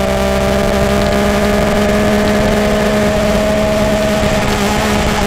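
Motorcycle engine and exhaust held at steady raised revs, one even pitched note.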